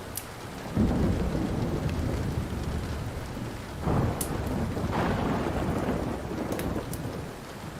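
A rolling rumble of thunder breaks in about a second in and swells again around four and five seconds, over steady rain. A few sharp pops of a crackling wood fire sound above it.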